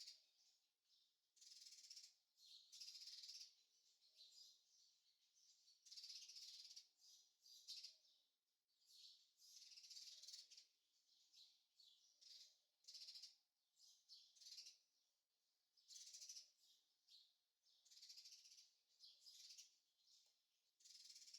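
Faint forest ambience: high-pitched chirring calls that come in short bursts every second or two.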